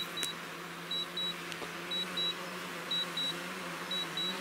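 A quadcopter drone buzzing steadily as it comes in on return-to-home. Over the buzz, a high double beep repeats about once a second, the drone controller's return-to-home alert.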